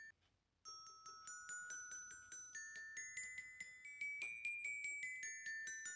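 Quiet background music: a light melody of high, bell-like mallet-percussion notes, a few struck each second and each ringing briefly. It drops out for about half a second just after the start.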